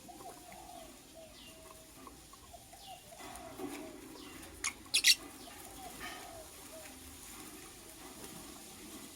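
Lovebirds chirping: faint, repeated short chirps, with a burst of loud, shrill chirps about five seconds in.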